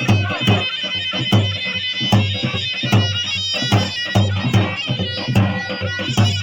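Loud traditional dance music: a shrill, reedy zurna-type shawm holding a melody over a deep dahol-type drum, with a heavy beat about every 0.8 s and lighter strokes between.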